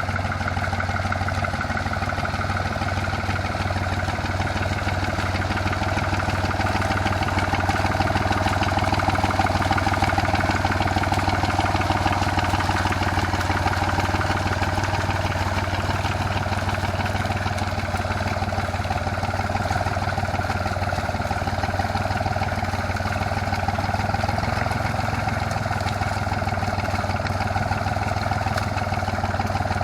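Yanmar YM3000 tractor's diesel engine running steadily as it levels soil in a paddy field, swelling slightly about a third of the way through.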